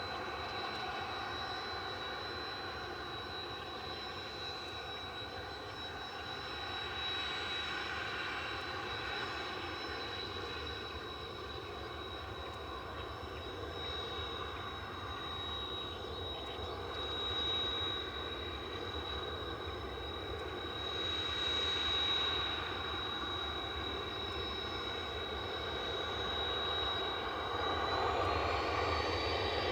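Jet engine running steadily with a high whine over a low rumble; near the end the whine rises in pitch as the engine spools up.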